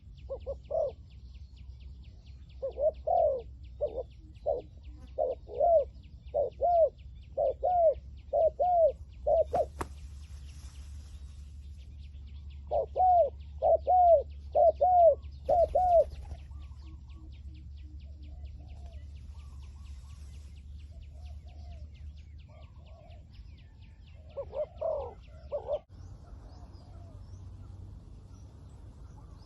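Spotted doves cooing: bouts of short, rhythmic coos, with a fast, even insect trill running behind them until near the end and a single sharp click about ten seconds in.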